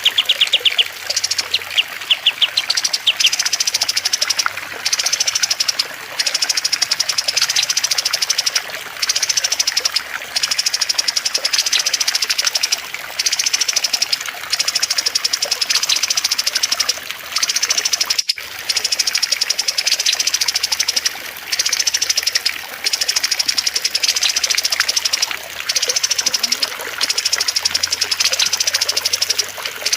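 Cage-bird song played as a training recording: rapid, high-pitched trills, each lasting a second or two and repeated with short gaps, over a steady background of trickling water.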